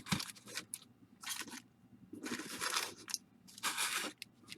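Baseball card pack wrappers being torn open and crinkled by hand, in several short ripping bursts.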